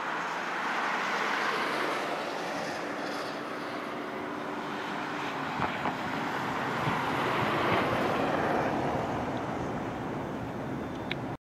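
Florida East Coast freight train passing: a GE ES44C4 and a GP40-2 diesel locomotive working by, followed by the steady noise of freight-car wheels rolling on the rails. The sound cuts off suddenly near the end.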